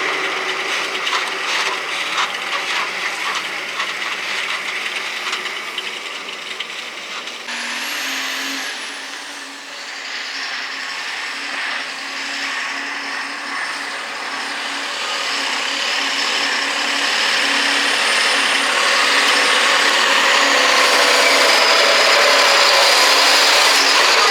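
Heavy loaded sand tipper truck running on a rough embankment road: a clattering rattle for the first seven seconds or so, then a steadier engine hum with a high whine that gets louder toward the end.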